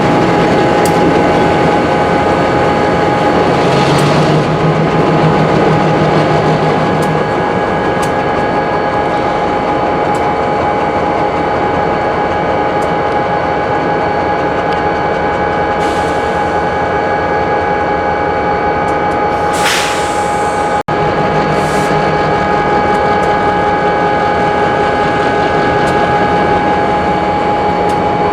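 Freight train moving through a rail yard: a steady, loud rolling noise with constant whining tones over it. The sound cuts out for an instant about 21 seconds in.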